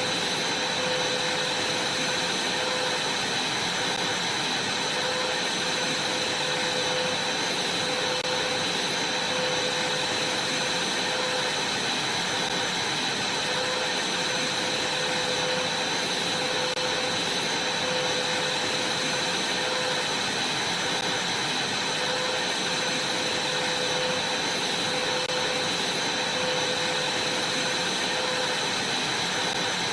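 Vacuum cleaner running steadily while vacuuming a trampoline mat: a constant rushing noise with a steady high whine and a lower hum that wavers slightly.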